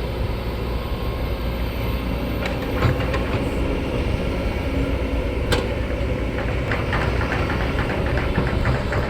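A heavy vehicle engine running steadily, with a couple of sharp knocks and, in the second half, a run of quick rattling clicks.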